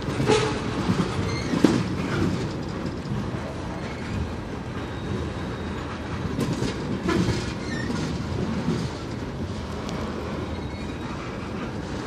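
Freight train cars rolling past on the rails, a steady low rumble with irregular knocks and clunks from the wheels and cars.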